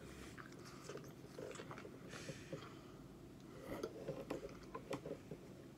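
Faint chewing of fresh fruit: irregular wet mouth smacks and small clicks, busiest in the last two seconds.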